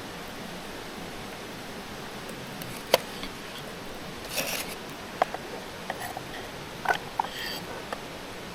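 Handling sounds over a steady background hiss: a sharp click about three seconds in, a short rustle, then a handful of light clicks and taps.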